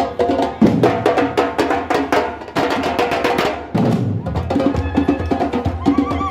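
Batucada samba percussion group playing: drums and hand percussion in a fast, dense rhythm with two short breaks, and a warbling high tone coming in near the end.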